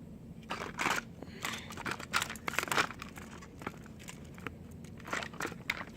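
Small plastic toy trains and their packaging being handled: irregular crinkling rustles and light clicks, busiest in the first half and again near the end.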